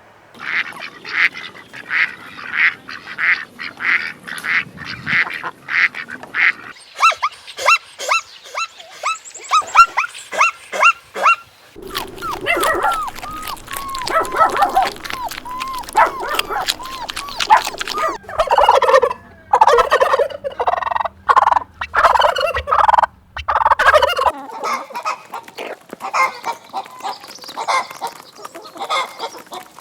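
Farm poultry calling in a run of short clips, one flock after another: fast repeated high calls at first, then a string of short honks, then warbling, gliding calls, then louder, lower honking calls near the end.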